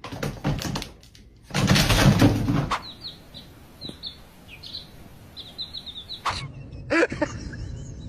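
A loud noisy burst lasting about a second, starting about one and a half seconds in. It is followed by a small bird chirping in a quick series of short, high, falling notes.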